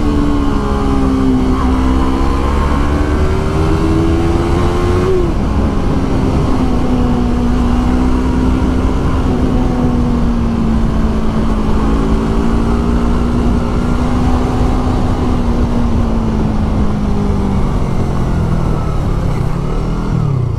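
Motorcycle engine running under way with heavy wind rumble on the microphone. The engine note drops about five seconds in, holds steady for a long stretch, then falls away near the end as the bike slows.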